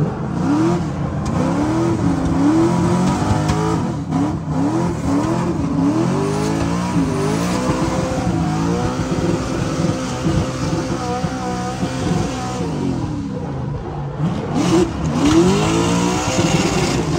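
Drift car's engine, in a fiberglass-bodied '32 five-window coupe, revving up and falling back again and again as it drifts, heard from inside the cabin. For a few seconds in the middle it holds a high pitch before dropping and climbing again near the end.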